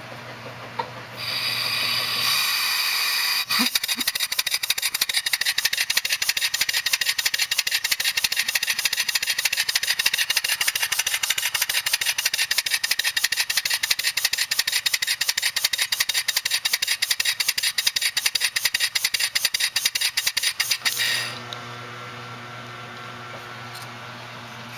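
A 4 hp Briggs & Stratton engine converted to run on compressed air, hissing as air is let in and then running with a fast, steady train of exhaust puffs that stops suddenly about 21 seconds in. Its added cam lobes give regular lift and duration, and it runs a bit rough.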